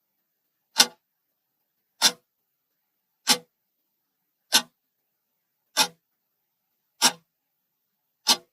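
Timer ticking sound: seven sharp, evenly spaced ticks about one and a quarter seconds apart, with silence between them.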